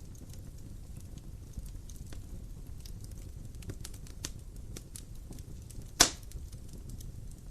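Wood fire in a fireplace crackling over a low steady rumble, with scattered small snaps and one loud sharp pop about six seconds in.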